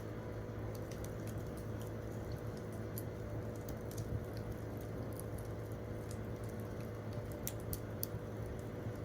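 Wood campfire crackling: irregular sharp pops and snaps over a steady low rush of the burning fire.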